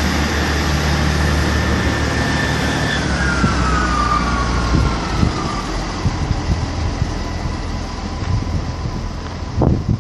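Class 158 diesel multiple unit pulling out. Its steady low engine drone fades over the first half, a whine falls in pitch around the middle, and a run of irregular knocks from the wheels on the track follows as it goes away.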